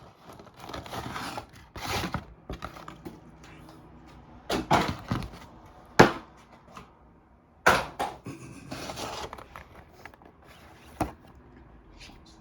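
Hands opening a diecast model bus's box and packaging: scattered rustling and scraping of cardboard and plastic, with a few sharp knocks, the loudest about six and eight seconds in.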